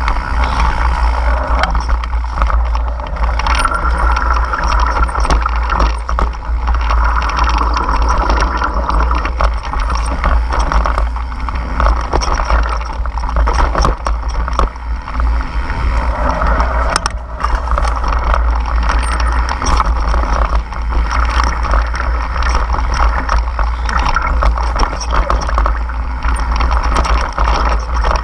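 Many water drops falling and splashing in a dense, irregular patter, over a steady low rumble.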